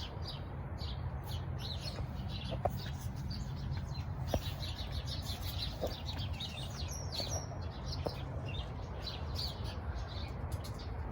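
Several small birds chirping, with many short, high, overlapping notes throughout, over a steady low rumble.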